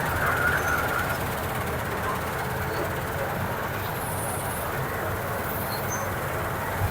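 Combine harvester running steadily in a wheat field, a continuous mechanical drone with a deep rumble.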